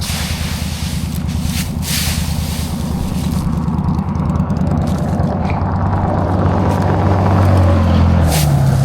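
2022 Indian Scout Bobber's V-twin engine running steadily, its pitch creeping up over the second half and shifting near the end.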